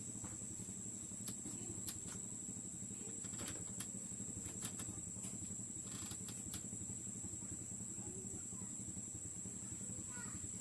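A steady low hum with a constant high-pitched whine, and scattered light clicks and taps, about a dozen of them.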